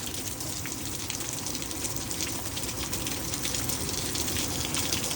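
Heavy storm rain: a steady rushing hiss dotted with many small sharp ticks of drops striking surfaces, growing slightly louder.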